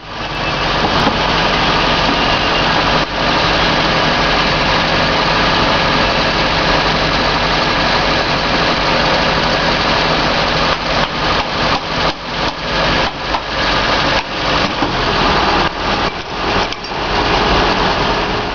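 Car engine idling close by, running steadily; from about eleven seconds in its level dips and swells irregularly.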